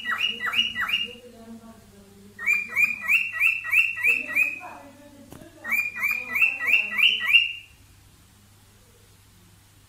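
Cockatiel giving its courtship (mating) call: rapid, evenly repeated chirps, about five a second, in three bursts, the last stopping about three-quarters of the way through.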